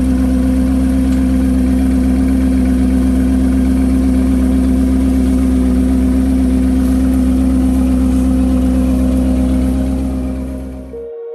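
Lamborghini Urus Performante's twin-turbo V8, fitted with an upgraded exhaust, idling steadily with a deep, even drone. It cuts off abruptly near the end.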